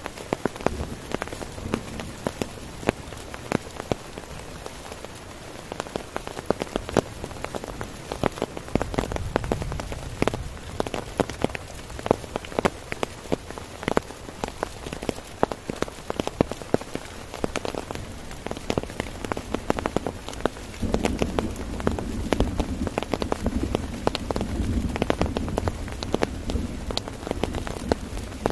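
Heavy rain falling on a tent: a dense, steady patter of drops hitting the fabric, with a low rumble swelling in about a third of the way in and again for much of the last third.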